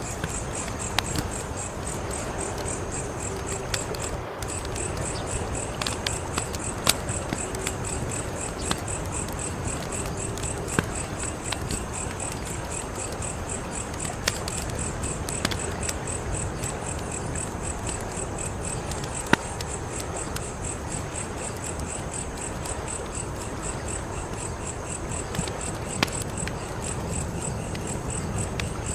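Wood fire crackling, with a steady noisy bed and scattered sharp pops, the loudest about two-thirds of the way through. Behind it, crickets chirp in a fast, steady, high-pitched pulse.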